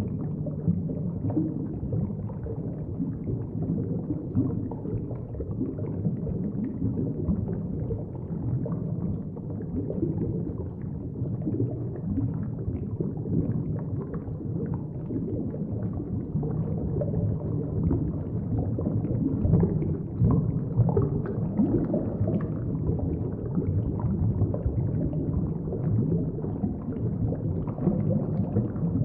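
Steady, muffled low rumble of moving water, an underwater-style aquarium ambience with no distinct events.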